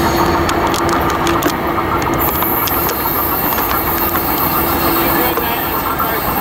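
Tri-Rail commuter train running away on the track, its cab car trailing: a steady loud rumble with a constant hum and scattered sharp clicks from the rails.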